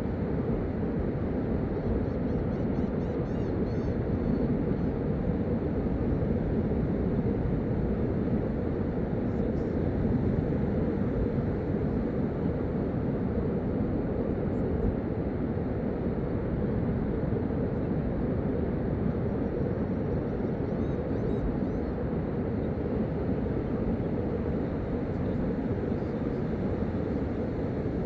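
A steady low rumbling noise that holds an even level throughout, with a few faint high chirps now and then.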